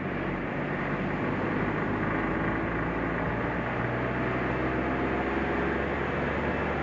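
Suzuki Jimny driving along at a steady pace: a steady low engine drone mixed with road and tyre noise.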